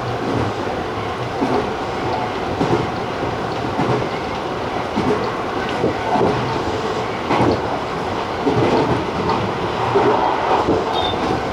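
Running noise of a Tobu TJ Liner electric train at speed: a steady rumble of wheels on rail, with irregular clacks over rail joints.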